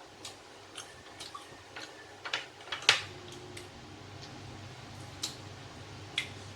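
Chopsticks and bowls clicking during a meal: scattered light taps, the loudest about three seconds in.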